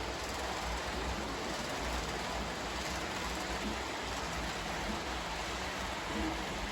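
HO-scale model diesel locomotive running along the layout's track, a steady rumble and hiss.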